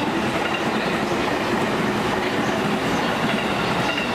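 Railway train rolling past at close range: steady wheel-on-rail running noise.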